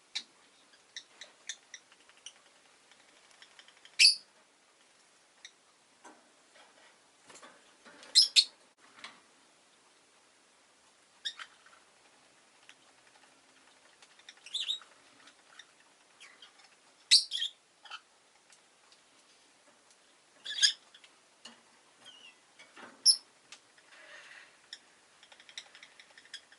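Rosy-faced lovebird giving short, sharp, high-pitched chirps every few seconds, about seven loud calls, with faint clicks and softer chirps in between.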